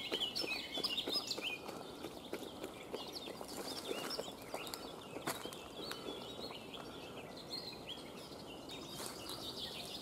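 Faint birdsong from several songbirds: many short chirps and whistled notes overlapping at different pitches.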